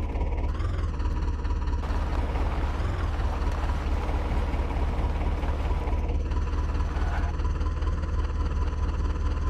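Diesel tractor engine running steadily, a heavy low throb with a thin whine over it.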